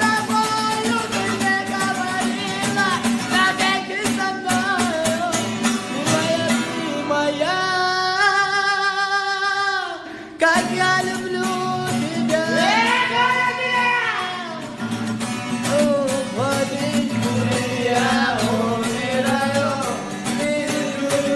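A song: a voice singing a melody over a guitar-led backing, with one long held note that breaks off about ten seconds in before the singing picks up again.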